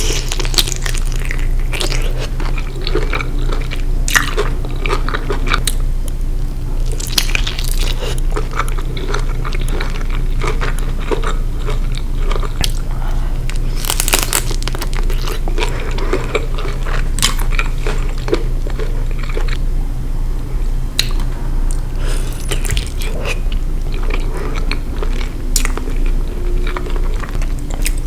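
Close-miked eating of a garlic butter seafood boil: biting and chewing, with frequent sharp, irregular clicks and crunches over a steady low hum.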